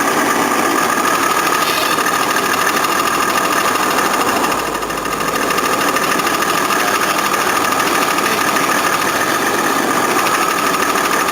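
Jaguar XJ6 4.2-litre six-cylinder engine running in gear, with a steady, loud clattering rattle from its cracked automatic-transmission drive plate, which sounds not healthy. The level dips briefly about four and a half seconds in.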